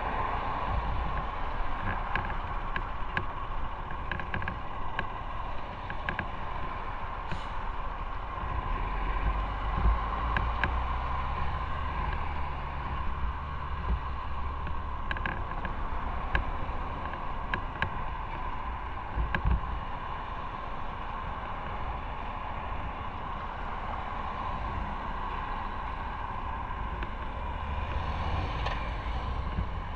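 Motorcycle engine running steadily while riding, mixed with wind rushing over the microphone, with scattered small clicks and knocks.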